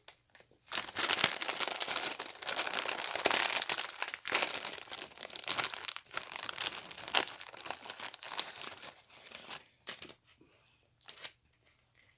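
Plastic crisp packet crinkling and crackling as it is handled and torn open, a dense crackle for about nine seconds that thins to a few faint rustles near the end.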